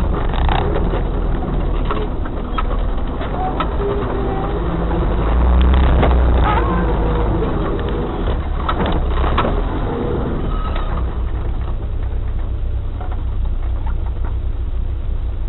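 Off-road 4x4 vehicle's engine running as it drives over rough ground, with frequent knocks and rattles from the body and suspension. The engine gets louder for a moment about halfway through.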